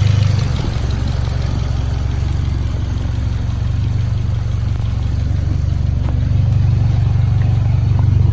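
Turbocharged car engine idling steadily with a low rumble, a little louder in the last couple of seconds.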